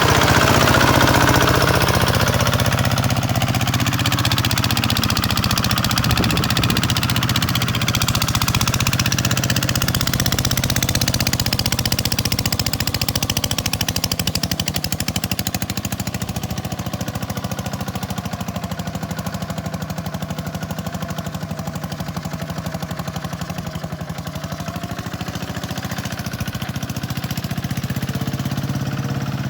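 Tractor's diesel engine running steadily under load, with a fast, even knocking beat.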